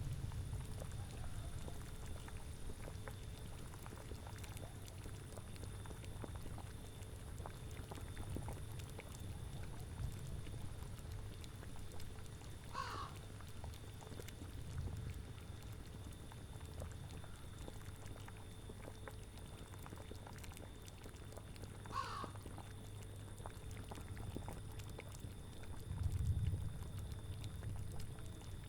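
A cauldron of liquid boiling with a steady low bubbling and faint pops, swelling to a louder gurgle near the end. An animal call sounds briefly twice, about nine seconds apart.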